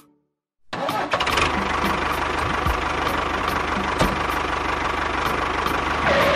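An engine starts after a brief silence and runs steadily, ending about six seconds in.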